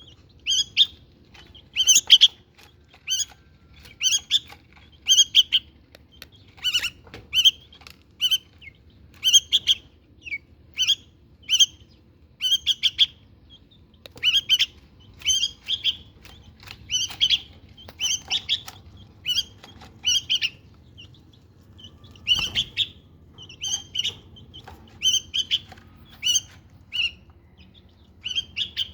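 Caged white-spectacled (Syrian) bulbuls giving short, sharp chirping calls over and over, about one or two a second, with a brief pause midway and a single soft bump about two-thirds of the way through.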